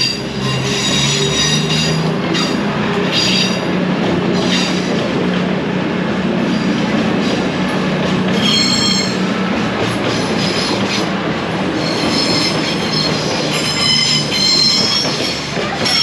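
A train rolling slowly past on the main line, its wheels squealing against the rails in high-pitched stretches, strongest about halfway through and again near the end, over a steady low hum from the train.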